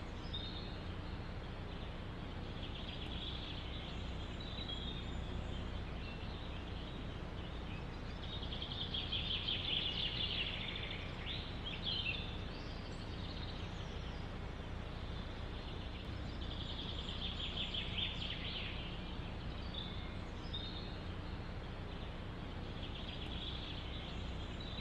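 Small songbirds chirping and trilling in repeated bouts over a steady low rush of wind in a forest. The sound fades out at the very end.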